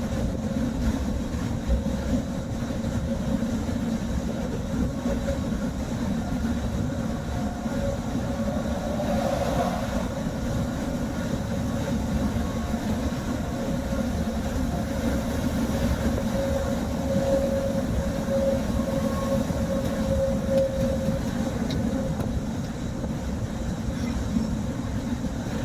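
Steady low rumble of a car driving, heard from inside the cabin: road and engine noise, with a faint whine that comes and goes.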